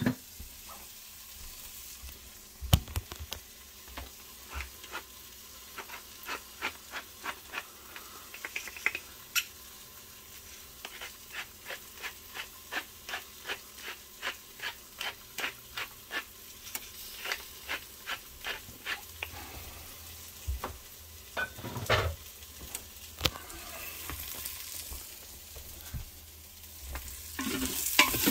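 Rice, mushrooms and tarragon sizzling in butter in an Instant Pot's stainless steel inner pot on the sauté setting. A wooden spoon stirs them, knocking against the pot about twice a second through the middle, with a few louder knocks and heavier stirring toward the end.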